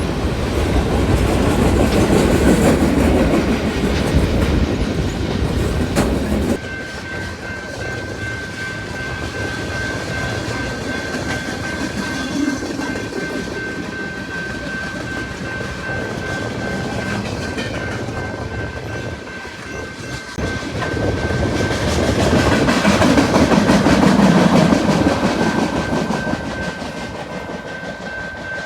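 A loaded military freight train of flatcars carrying vehicles rolls past at speed, its wheels clacking over the rail joints. The sound drops abruptly about six and a half seconds in, and from there a faint steady high tone runs under the train noise, which swells again late on.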